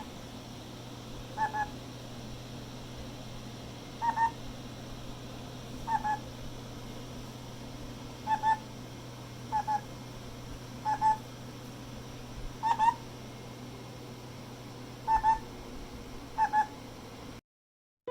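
Black-headed caique giving short two-note calls, about ten of them at irregular gaps of one to two and a half seconds, over a steady low hum.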